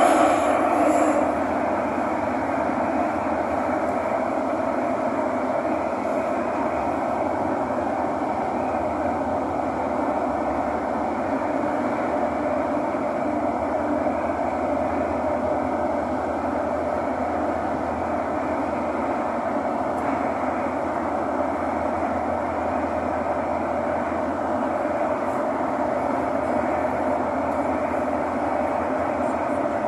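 Metro train running between stations, heard from inside the passenger cabin: a steady, even rumble and rush of wheels and motors at cruising speed.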